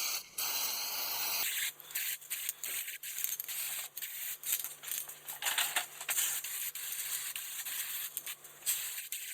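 Aerosol can of Fluid Film rust inhibitor spraying: a steady hiss for about a second and a half, then breaking into many short, uneven spurts, as from a can that may be running out.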